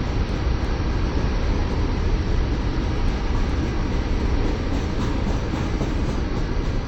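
Norfolk Southern freight train passing, a steady rumble of wheels on rail.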